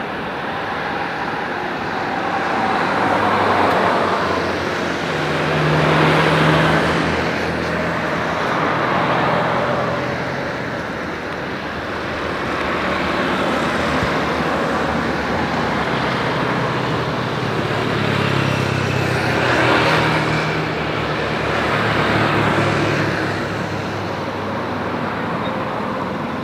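Road traffic: vehicles passing one after another in a continuous wash of tyre and engine noise, swelling every few seconds.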